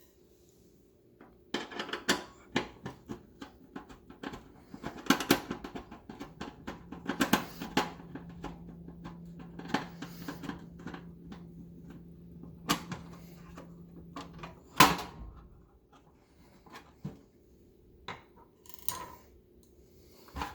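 Hands working on an oven's removed control panel: a run of clicks, taps and scrapes of plastic and sheet-metal parts, with one sharp knock about three quarters of the way through. A faint low hum sits under the middle part.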